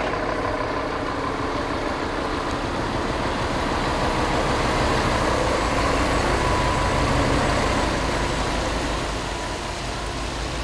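Heavy truck engine running steadily, growing a little louder toward the middle and then easing off.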